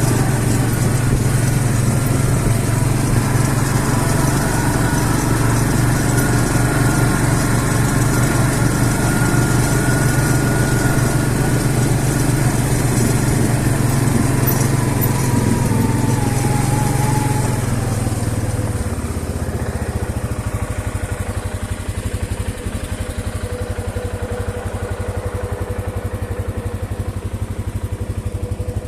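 CFMoto CF500 ATV's single-cylinder engine running steadily; about two-thirds of the way through, its note drops lower and quieter.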